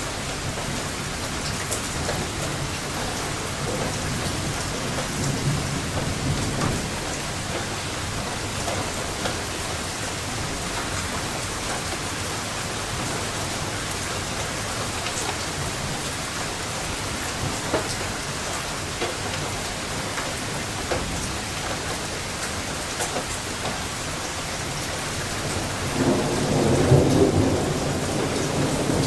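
Steady rain falling in a thunderstorm, with a low rumble of thunder about five seconds in and a louder rumble of thunder rolling in near the end.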